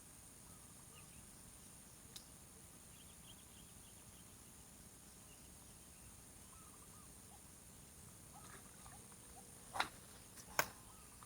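Quiet outdoor ambience: a steady high-pitched drone with faint scattered chirps. There are three sharp clicks, one about two seconds in and two close together near the end.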